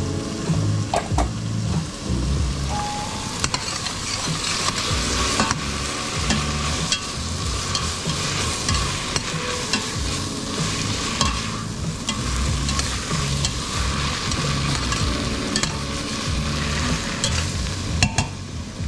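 Food sizzling in a hot pan while being stirred, with a utensil scraping and clicking against the pan.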